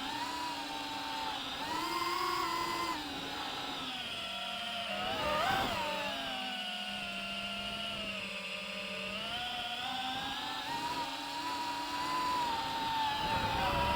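DJI FPV drone's motors and propellers whining, the pitch rising and falling with the throttle, with brief climbs about two seconds in, near the middle and near the end.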